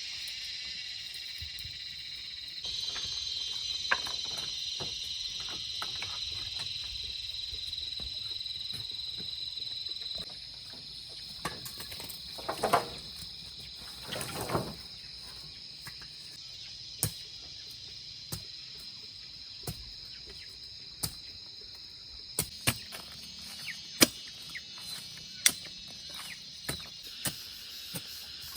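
Steady high-pitched insect drone, crickets or cicadas, louder for about the first ten seconds and fainter after, with scattered sharp knocks and clicks over the second half.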